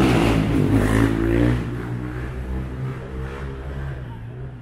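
A car engine running with a steady low rumble, loud at first and fading after about a second and a half.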